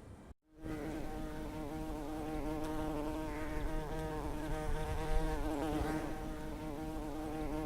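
Tractor engine running at a steady speed, a buzzing hum with a slight waver in pitch; it starts abruptly after a brief dropout about half a second in.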